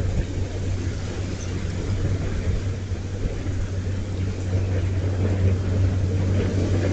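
Gusting wind blowing on the microphone, a continuous low rumble and buffeting that eases a little and then builds again toward the end.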